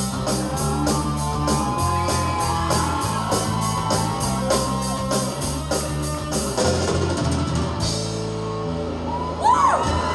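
Live rock band playing an instrumental passage on drum kit, bass and electric guitar, with a regular cymbal pattern that drops out about seven seconds in.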